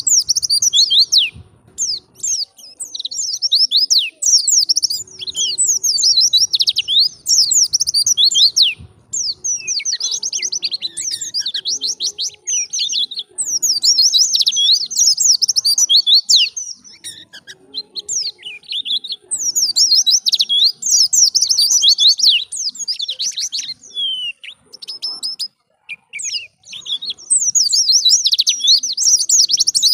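White-eye (pleci) singing: a rapid, high-pitched twittering song of quick gliding notes, delivered in phrases a few seconds long with short pauses between them.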